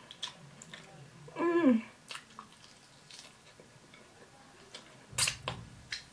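Mouth sounds of a person eating with her fingers: soft chewing and small wet clicks and smacks. A short hummed "mm" falls in pitch about a second and a half in. A louder run of wet smacks comes about five seconds in as she licks her fingers.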